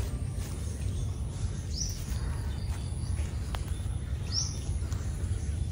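Two short bird chirps about two and a half seconds apart, over a steady low rumble.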